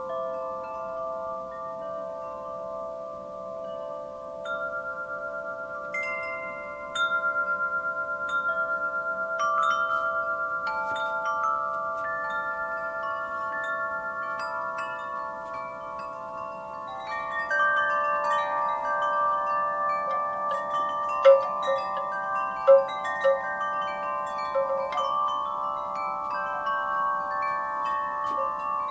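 Wind chimes ringing in the breeze, with many long, overlapping metallic tones struck at random. The strikes grow busier about halfway through, with a few sharper, louder hits near the end.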